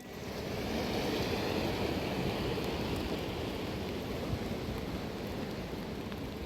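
Heavy rain falling: a steady rushing hiss that swells up over the first second and then holds.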